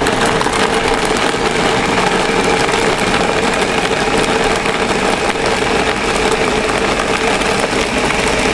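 Countertop blender running at full speed, a loud steady motor whine as it purees chicken feet with vanilla ice cream.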